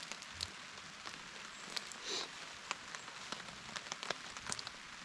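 Rain falling on a camp shelter's fabric overhead: a steady hiss with sharp individual drops striking it every so often.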